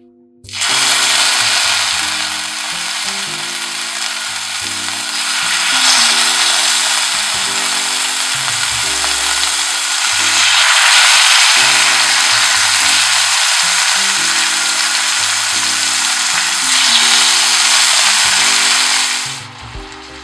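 Marinated chicken thigh pieces frying in hot scallion oil in a stainless steel saucepan: a loud, steady sizzle that starts suddenly about half a second in as the meat goes into the oil and drops away near the end.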